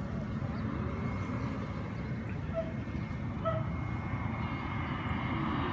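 Airbus A321neo on approach, its Pratt & Whitney geared turbofans heard as a low rumble with a steady high whine, growing a little louder near the end. A couple of short chirps cut in briefly.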